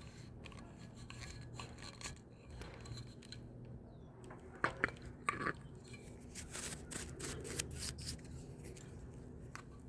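Faint handling of fan parts: scattered clicks, light knocks and rubbing. There are two sharper clicks around the middle and a quick run of clicks a little later.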